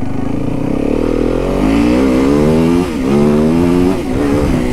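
Dirt bike engine revving: the pitch climbs over about two seconds, drops briefly about three seconds in, climbs again and drops once more near the end before running steady.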